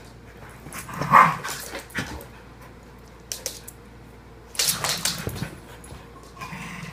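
Two dogs growling at each other in irregular outbursts, the loudest about a second in and another around the middle, with quieter spells between.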